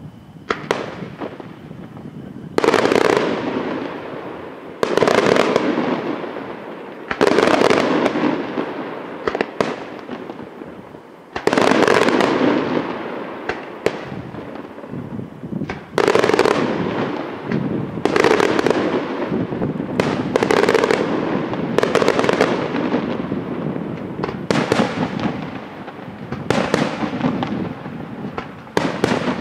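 Aerial fireworks shells bursting in quick succession: about a dozen loud bangs, roughly two seconds apart, each trailing off in a fading rumble before the next.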